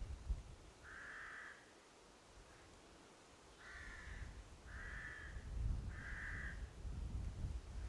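A crow cawing four times: one harsh caw about a second in, then three more in quick succession midway through.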